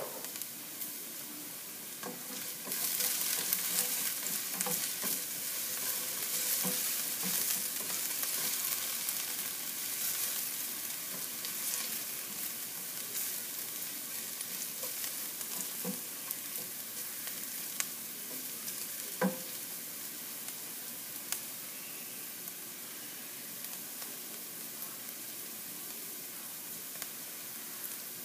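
Ginger strips sizzling in oil in a nonstick frying pan as they caramelize. The sizzle swells about three seconds in while a spatula stirs them, with a few light knocks of the spatula against the pan.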